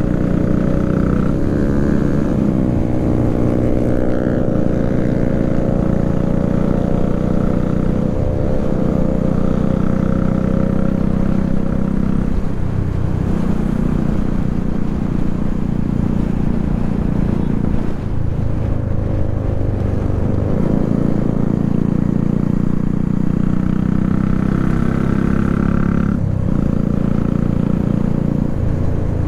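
Single-cylinder sport motorcycle engine running under way, its pitch sliding and breaking off every few seconds as the revs change.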